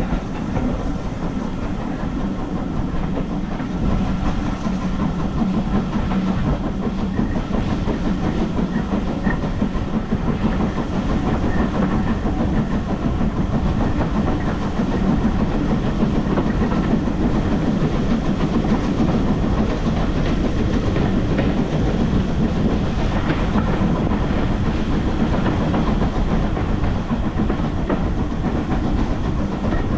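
Heritage railway carriage running along the line, its wheels clattering over the rail joints over a steady rumble, heard from inside the coach.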